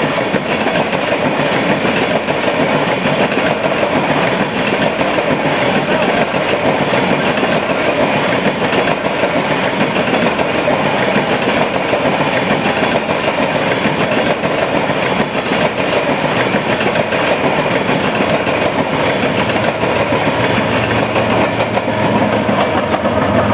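BNSF coal train's hopper cars rolling past at a steady pace, a continuous loud rumble and rattle of wheels on rail with faint clicks. A steady low engine hum comes in near the end.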